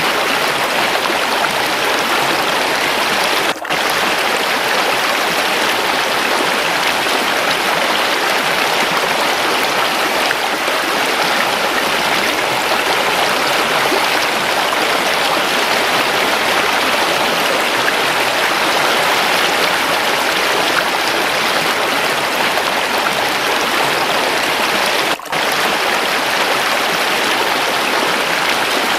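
Waterfall and running water rushing steadily, with two momentary dropouts: one a few seconds in and one near the end.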